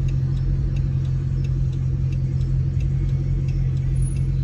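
Hemi V8 car engine running steadily at low speed, a constant low drone with no revving.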